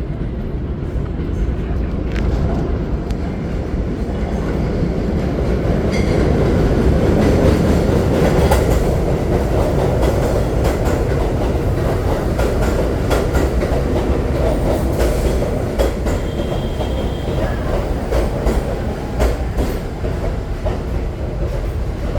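New York City Subway train running on the rails, with a steady rumble and the wheels clacking over rail joints. It grows louder over the first several seconds, then runs on steadily.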